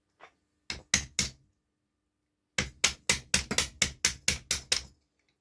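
Hammer tapping on a tight wrist (gudgeon) pin in a moped piston to drive it back out. Three sharp taps about a second in, then a quick run of about a dozen taps at roughly five a second. The pin is an overly tight fit in the piston.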